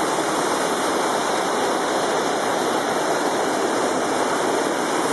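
Waterfall in heavy spring flow, a steady, loud rush of falling water.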